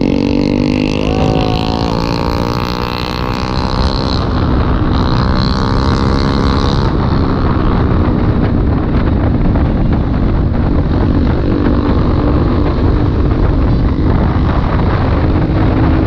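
Motorcycle engine running under way, its pitch drifting a little as the throttle changes, with wind rushing over the microphone and growing to cover most of the engine after the first few seconds.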